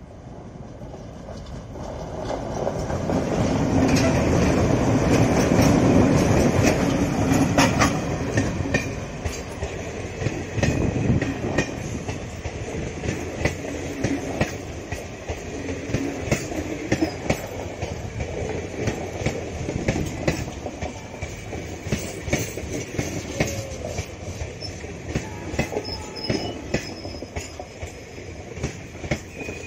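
Two WDG3A diesel locomotives passing close by: a heavy engine rumble builds and peaks about four to eight seconds in. After that the passenger coaches roll past, with a steady rolling noise and rapid clicks of wheels over rail joints.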